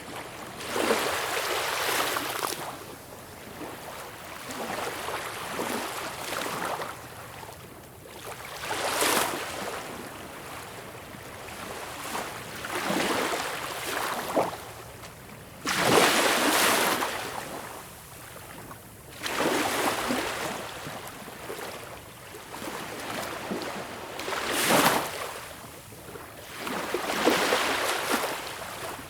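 Small, calm waves breaking and washing up a beach shore, each surge of water swelling and falling away about every three to four seconds.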